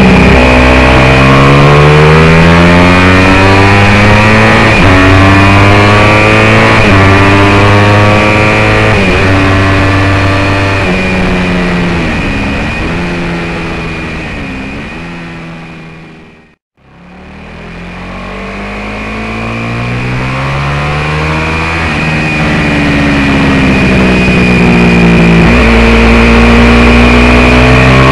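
Racing motorcycle engine at hard throttle on track. The revs climb and then drop back at each upshift, several times in a row, and dip and wobble once as it slows for a corner. About two-thirds of the way through the sound fades away to nothing and fades back in, then pulls up through the gears again.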